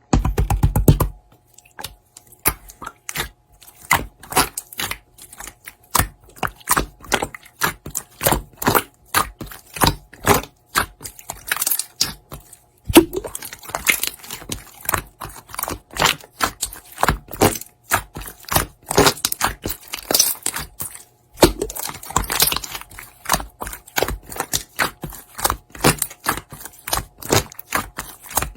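A close, irregular run of sharp clicks, taps and crackles, several a second, with brief pauses.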